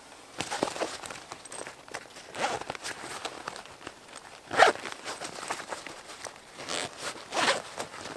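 Irregular rustling and scraping: about half a dozen short bursts, the sharpest about halfway through.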